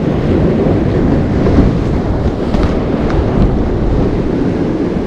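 Ocean surf washing against shoreline rocks, with wind buffeting the microphone: a steady, loud rushing noise.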